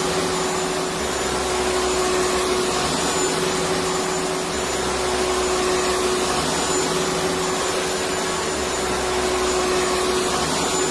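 Electric vacuum cleaner running steadily: an even rushing whoosh of air over a constant motor hum, with a low rumble that swells and fades every few seconds.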